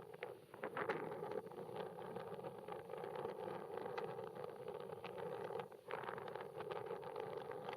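Airbus A320neo's Pratt & Whitney PW1100G geared turbofan engines on approach to land: a steady jet noise, with gusts of wind buffeting the microphone.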